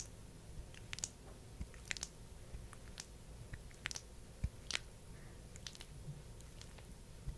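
Close-up sticky, squishy clicks of thick skincare balm and tools being handled, irregular, one or two a second, the sharpest about halfway through.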